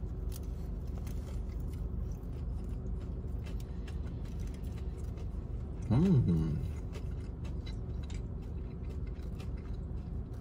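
Close-up chewing of a bite of fried chicken sandwich, with faint wet mouth clicks over a steady low hum. About six seconds in, a short hummed "mmm" that rises and falls in pitch.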